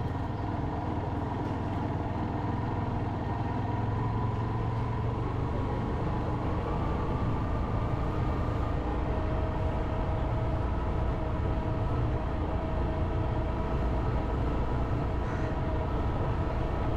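Motorcycle engine running steadily while being ridden, with a constant low rumble and a slight shift in engine pitch partway through.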